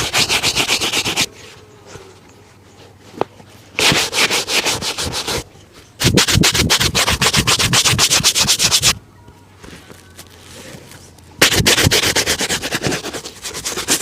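A shoe being brushed hard in fast back-and-forth strokes, about seven a second. The brushing comes in four bursts with short pauses between them.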